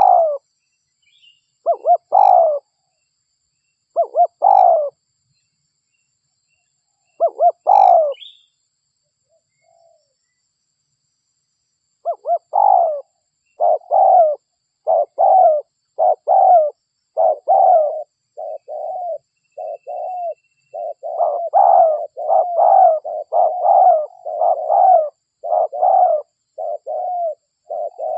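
Derkuku (spotted dove) cooing: a few spaced coo phrases, then after a pause of about four seconds a long, almost unbroken run of coos that grows denser in the second half. This is a lure recording of a calling dove.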